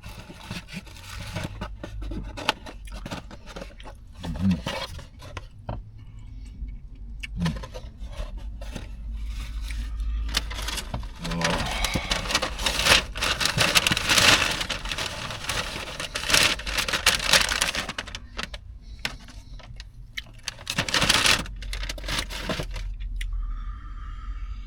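Close-miked eating of a sub sandwich: chewing and mouth clicks, with longer stretches of crinkling wrapper about halfway through and again near the end.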